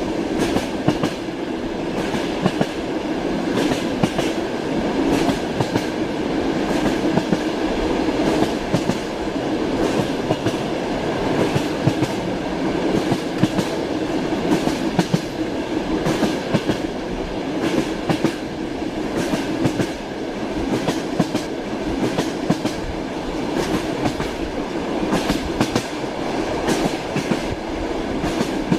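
Train wheels clattering over rail joints, heard inside a passenger carriage's compartment, over the steady rumble of the moving car. Sharp clicks come in quick groups throughout.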